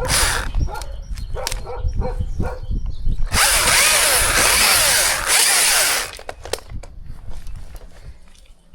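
Chainsaw cutting into wood in one loud burst of just under three seconds that starts about three seconds in, after a run of knocks and clatter.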